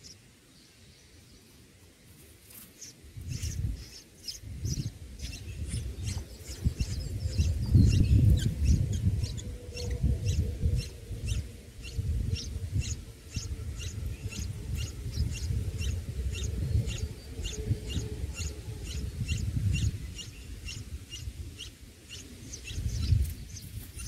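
Red-whiskered bulbul nestlings begging: short high chirps repeated evenly, about two to three a second, starting a few seconds in, as the parent feeds them. A louder low rumble runs beneath the chirps.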